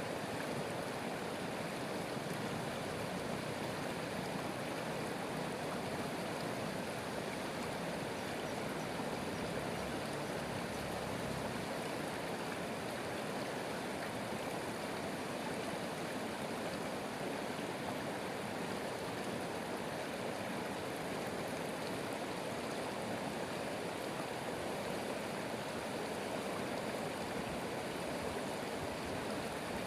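Steady rushing of flowing stream water, an even noise that holds level throughout.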